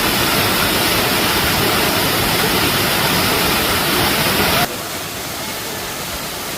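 Waterfall water rushing, a steady even noise that drops suddenly in level a little over four and a half seconds in and carries on quieter.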